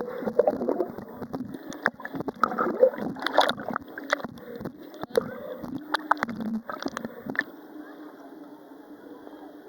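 Water splashing and sloshing around a waterproof camera, with irregular knocks and splashes for about seven seconds, then a quieter, steadier muffled wash of water.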